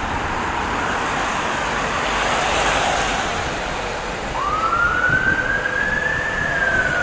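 Road traffic noise with an emergency vehicle's siren starting a little after four seconds in: one slow wail that rises in pitch and then gradually falls.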